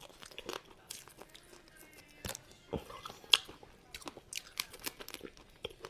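Crab shell and legs being cracked and chewed close to the microphone: irregular sharp cracks and clicks with soft chewing between them.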